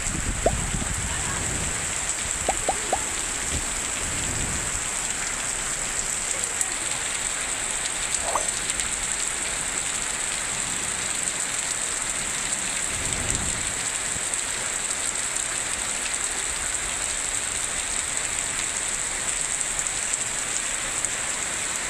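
Heavy rain falling steadily, a constant hiss, with a few short chirps in the first few seconds.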